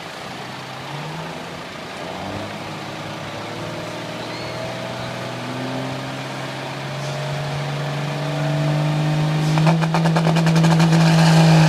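A truck engine working hard under load while pulling a weight sled, its pitch climbing slowly and growing louder. About nine and a half seconds in it gets louder still, with a fast rattling over the engine note.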